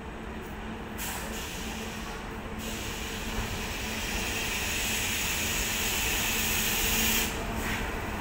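Electric locomotive approaching with its passenger train: a steady low hum with a hiss over it, growing louder as it nears and easing a little near the end.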